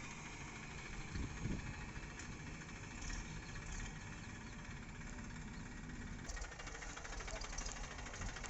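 Heavy diesel engine idling steadily; the sound changes abruptly about six seconds in.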